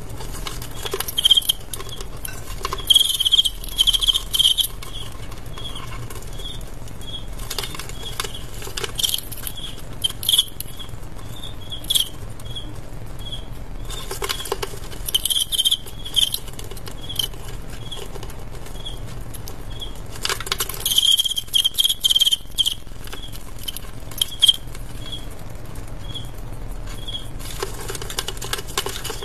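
Fighting male crickets chirping: a high, clear chirp repeating one to two times a second, louder in clusters, with bursts of scratchy scraping and rustling.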